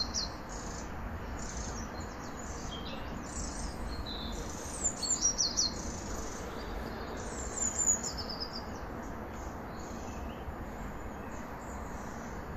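Small songbirds singing and calling: short, high, quickly sliding phrases repeated on and off, the loudest about five and eight seconds in, over a steady low rumble.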